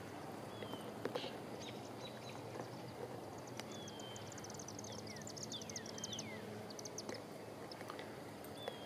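Birds singing in the background: repeated short falling whistles and, in the middle, a rapid high trill, over a faint outdoor hush.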